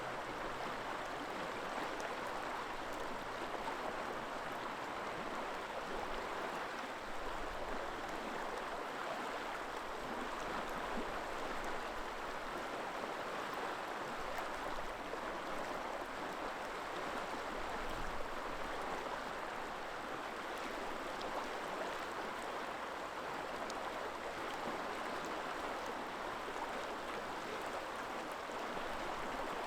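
River water flowing over rocks, a steady rushing and babbling, with occasional low wind rumble on the microphone.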